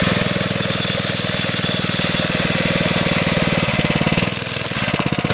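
Coleman CT100 minibike's small single-cylinder four-stroke engine running with a steady, rapid pulse, easing off briefly near the end.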